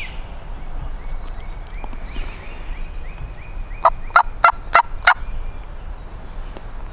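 Wild turkey gobbler gobbling once, a quick rattling burst of notes about four seconds in. Faint high short bird notes come before it.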